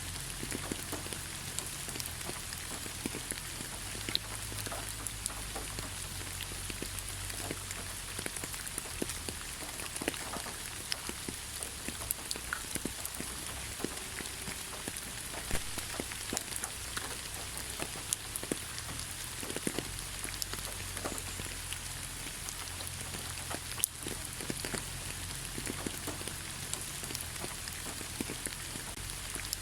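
Steady light rain falling on leaves, with many individual drops ticking and pattering against a continuous hiss.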